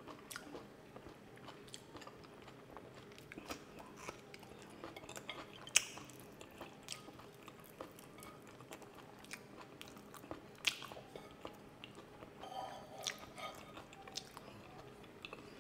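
A person chewing food close to the microphone: soft, scattered mouth clicks and smacks, with a couple of sharper clicks about six and eleven seconds in.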